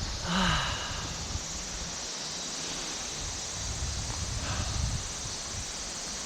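Steady drone of cicadas over the rush of a clear, rocky river, with irregular clacks of footsteps on loose stones. A brief voice sound about half a second in is the loudest moment.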